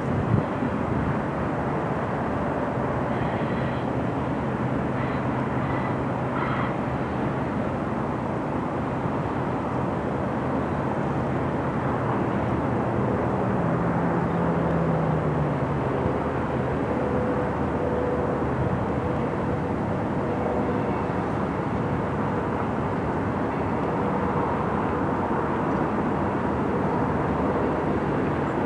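Double-stack container train's well cars rolling past, a steady rumble of steel wheels on rail with no break.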